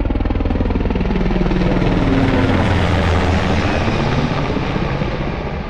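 A military helicopter passing close by, its rotor blades beating rapidly and evenly over the turbine engine. The pitch falls slightly partway through as it goes past.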